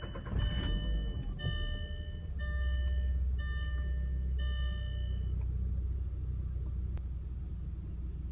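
1999 Volkswagen Golf Mk4 engine running with a steady low drone. A warning beep sounds five times, about once a second, over the first five seconds, then stops.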